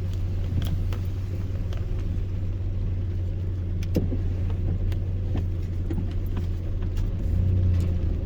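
Steady low rumble of a vehicle driving, heard from inside the cab, with occasional light ticks. The rumble grows a little louder about seven seconds in.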